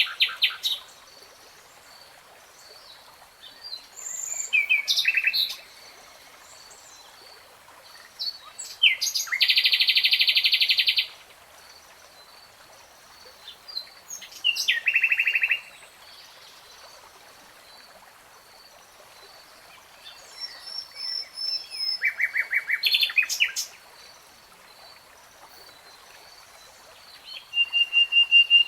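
A songbird singing in separate short phrases of fast repeated high notes, with pauses of a few seconds between them. About nine seconds in comes a longer, very fast trill lasting about two seconds.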